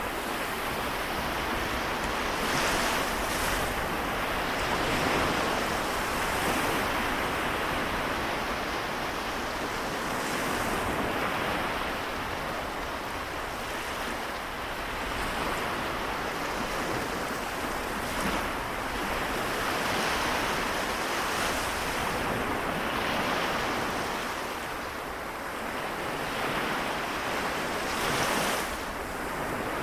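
Small waves lapping and breaking on the Seto Inland Sea shore, a continuous wash of surf that swells and ebbs gently, with a few brief splashes.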